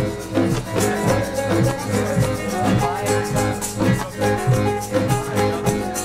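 Music played by a band: guitar with a shaker and a steady beat.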